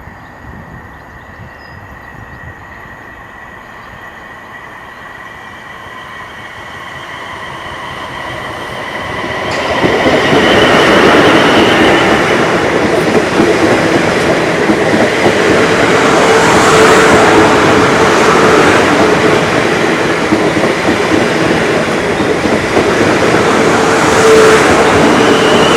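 A train approaching along the line, growing gradually louder, then running past close by from about ten seconds in, its wheels and running gear loud and steady on the rails to the end.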